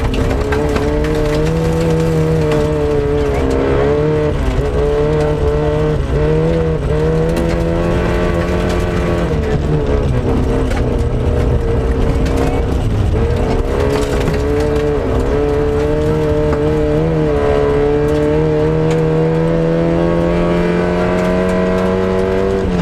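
Lada Samara rally car's four-cylinder engine heard from inside the car, driven hard, with the revs climbing and dropping sharply at each gear change or lift. Near the end a long, steady climb in revs falls suddenly with a shift.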